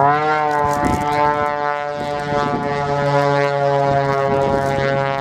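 Muscle aerobatic biplane's 330-horsepower piston engine and propeller at full power on takeoff, a loud drone that rises in pitch at the start and then holds steady.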